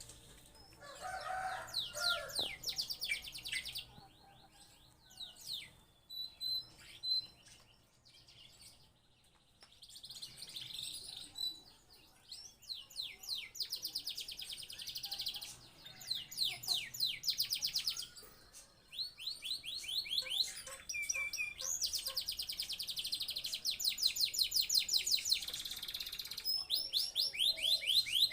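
Male domestic canary singing in breeding condition: phrases of fast, rapidly repeated trilled notes broken by short pauses, the trills running longer and more continuous in the second half.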